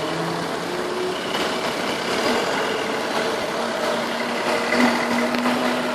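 Heavy rain pouring down in a steady hiss, mixed with vehicle engines running in street traffic.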